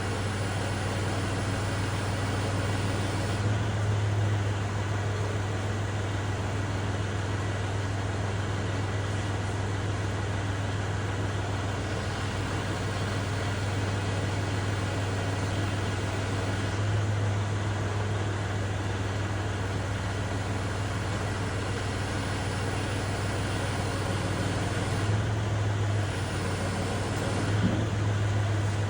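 Kubota tractor engine running steadily with a low, even hum, rising briefly a few times.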